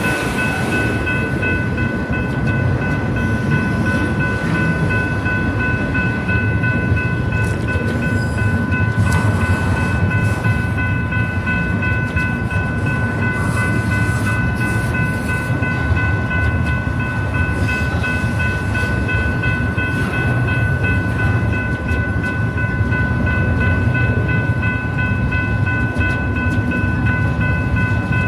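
BNSF freight train rolling past at close range: a steady, loud rumble of the cars on the rails, with several steady high-pitched ringing tones held over it.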